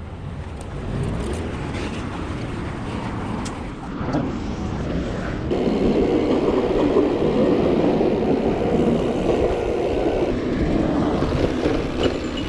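Road and traffic noise heard from a moving bicycle: a steady rushing haze that grows louder about halfway through.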